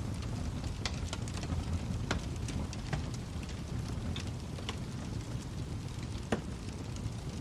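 Wood fire burning in a fireplace: a steady low rumble of the flames with scattered sharp crackles and pops, one louder pop about six seconds in.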